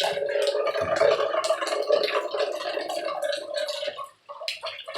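Rainwater pouring and splashing, with many sharp drips and splatters; it drops out briefly about four seconds in.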